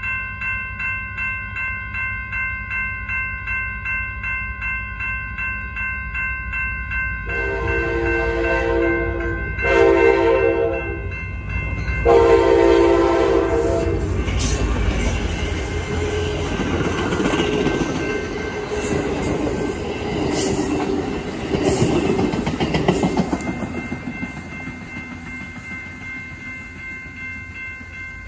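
A grade-crossing bell rings steadily at about two strokes a second throughout. An approaching Amtrak California passenger train sounds its horn in three blasts, the middle one shortest, then rumbles past with wheel clicks over the rail joints, fading near the end.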